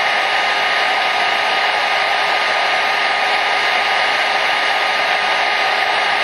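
Hair dryer running continuously: a steady, even rush of air over the motor's whine, with a faint constant hum in it and no change in speed.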